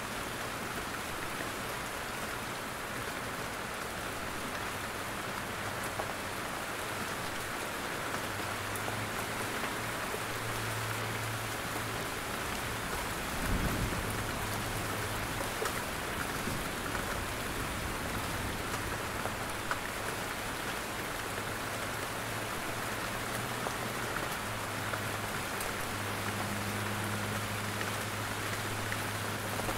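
Steady rain falling in a forest, with scattered heavier drops dripping from the trees. A faint low rumble comes and goes, and there is a single low thump about halfway through.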